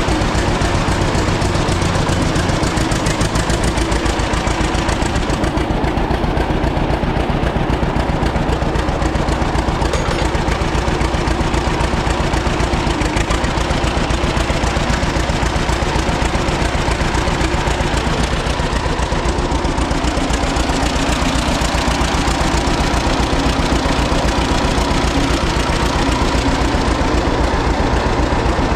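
A 1936 John Deere Model A's two-cylinder engine running steadily at idle after a hand-cranked cold start, with an even, rapid beat of firing strokes.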